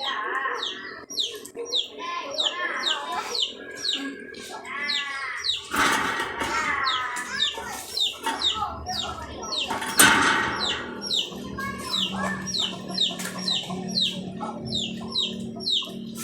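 A songbird calling with a rapid, even series of short high chirps, each dropping in pitch, about three a second, over lower, drawn-out bird calls.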